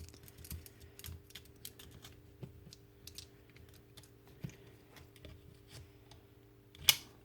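Faint scattered clicks and taps of small parts being handled as a carbon brush is worked out of an old Bosch jigsaw's motor, with a sharper click near the end.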